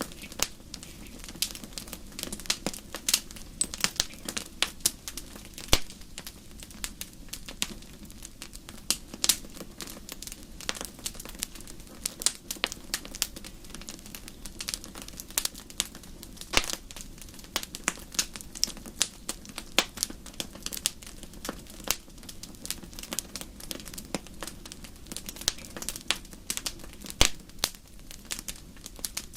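Campfire crackling: a steady stream of irregular sharp snaps and pops over a constant low rumble of burning.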